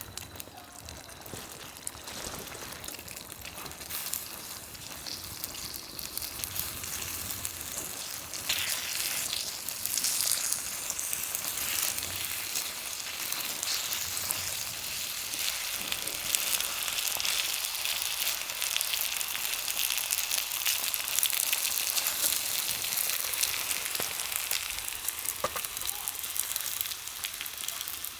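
Food sizzling and frying in a pan, a dense crackling hiss that grows louder about eight seconds in and keeps going.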